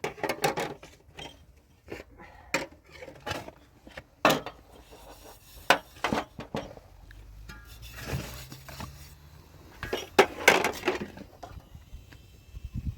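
Irregular sharp knocks and clinks of hard objects being handled, with the loudest cluster about ten seconds in.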